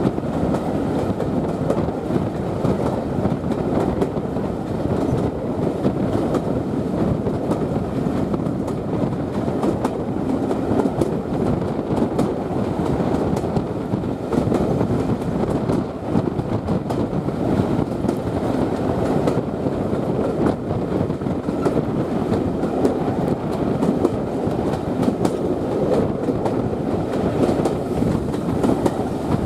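Train coaches running along the line, heard from an open carriage window: a steady rumble of wheels on rails with faint irregular clicks.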